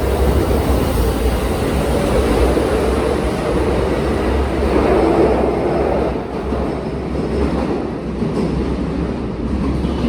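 Electric train running along the station platform at close range: a steady rumble of wheels on rail, loudest about halfway through and easing off a little after that.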